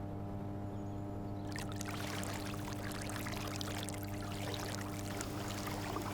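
Water splashing and trickling, starting about a second and a half in, over a steady low hum.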